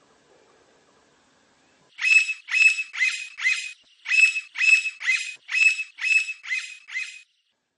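Blond-crested woodpecker calling: two runs of loud, clear, repeated notes, four and then seven, about two a second, with a short break between the runs.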